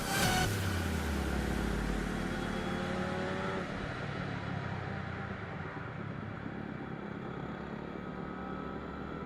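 125 cc sport motorcycle engine running on the road over a steady rush of wind and road noise, its note gliding a little in pitch, then gradually growing quieter.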